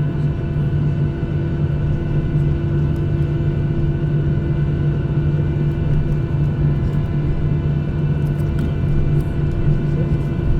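Cabin noise inside a Boeing 737-800: the CFM56-7B jet engines running at steady low power, a constant drone with several steady tones.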